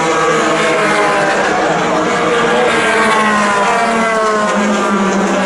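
IndyCar race cars' 2.2-litre twin-turbo V6 engines passing at speed. Several engine notes overlap, each falling in pitch as a car goes by.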